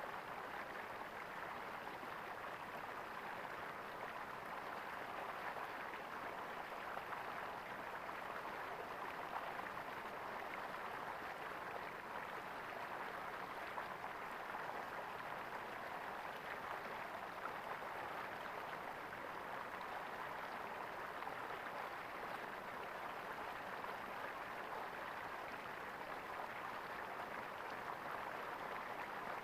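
Flowing water gurgling steadily and evenly, with no breaks.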